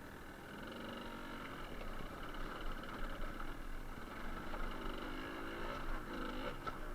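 Suzuki TS125R's two-stroke single-cylinder engine running as the bike is ridden, its revs rising and falling several times in the second half.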